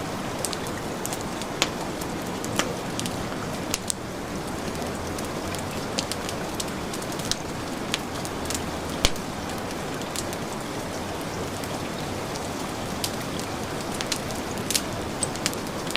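Heavy rain falling steadily, mixed with a wood fire crackling: irregular sharp pops over the even hiss of the rain, one louder pop about nine seconds in.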